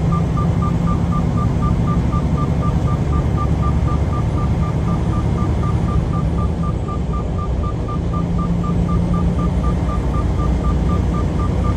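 Steady low rumble of a semi-truck heard inside its cab, with a short, high electronic beep repeating evenly about four times a second.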